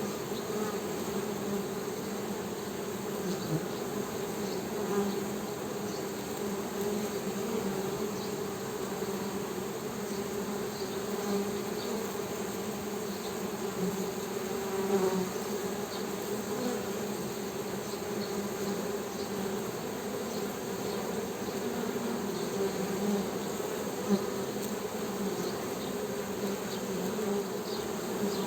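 Honey bees humming in a dense, continuous drone, with a few brief louder swells as single bees pass close.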